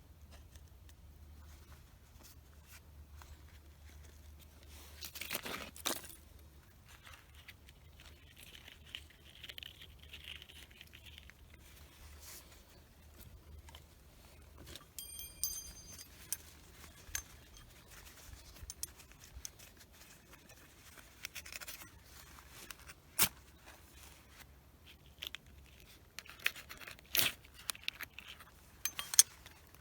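Birch bark and dry twigs being torn, scraped and handled in short bursts, with scattered sharp snaps. About fifteen seconds in there is a brief metallic ring.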